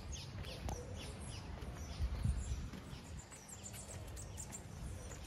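Several small birds chirping and calling in quick, short notes, over a low rumble that swells briefly about two seconds in.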